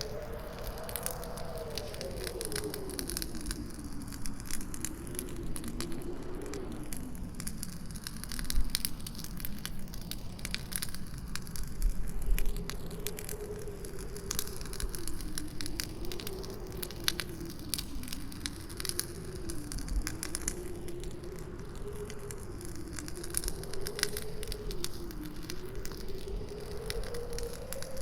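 Campfire crackling with many sharp snaps and pops, a couple of louder pops about a third of the way in, over howling wind whose moaning pitch slowly wavers up and down. It is mixed as 8D audio, panned around the listener.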